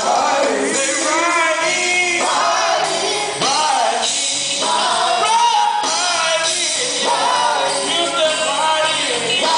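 Live gospel quartet singing with band accompaniment, a lead voice wavering and sliding over backing harmonies, in a large hall.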